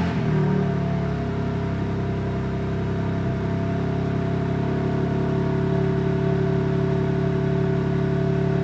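BMW M4 G82's twin-turbo S58 straight-six on its stock downpipes and exhaust, idling steadily at high idle just after a cold start.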